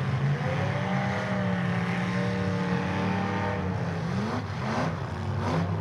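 Demolition derby car engines revving hard. One engine's pitch rises and holds for a couple of seconds, then several quick rising revs follow near the end.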